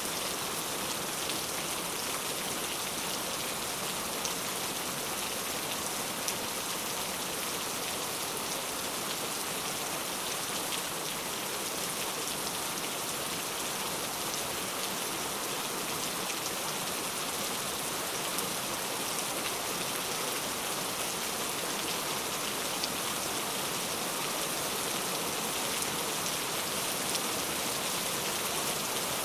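Heavy rain falling steadily, a dense even hiss with many small drop patters on surfaces.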